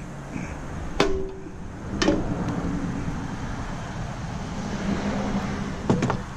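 Three metallic clanks, each ringing briefly: stainless steel parts and hand tools knocking together while the steamer is being taken apart. The first comes about a second in, the second a second later, the third near the end.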